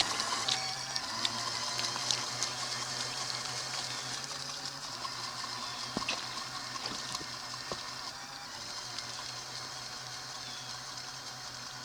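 Splashing, rushing water with scattered small clicks, over a low steady hum.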